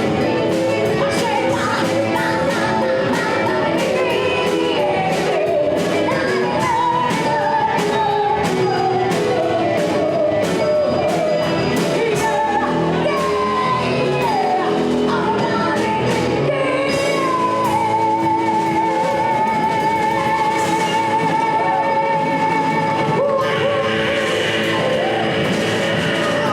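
Live rock band playing a song: a voice singing over electric guitar and drums, with a long note held with vibrato about two-thirds of the way through.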